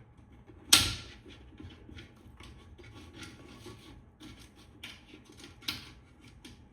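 Hands pushing wires into a metal can-light housing and handling a plastic retrofit light fixture: a sharp knock about a second in, then light scraping and clicking, with two more clear taps near the end.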